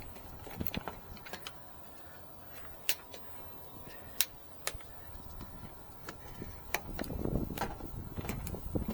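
Hand tools and hardware being handled: sparse sharp clicks and taps that grow busier, with some rustling, near the end.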